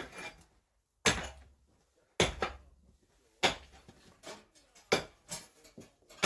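Hammer blows during wall demolition: four loud, sharp strikes about a second and a quarter apart, with lighter knocks in between.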